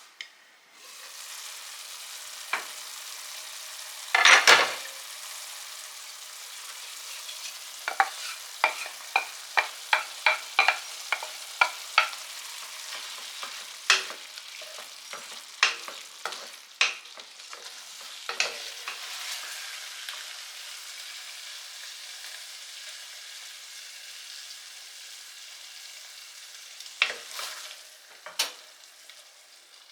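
Food sizzling in a frying pan with a steady hiss, while a utensil stirs it and taps against the pan in a run of quick clicks, about two a second. There is a louder clatter about four seconds in.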